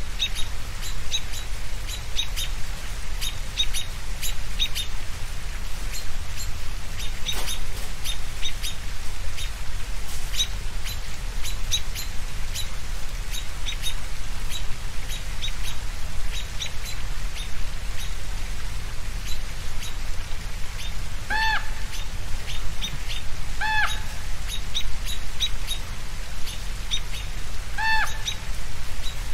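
Birds chirping steadily over a low rumble, with three louder, arching calls near the end.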